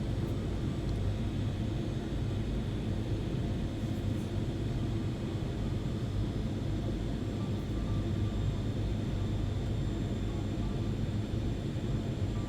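Steady low rumble of a jet airliner heard from inside the passenger cabin: engine and airflow noise with no sudden changes.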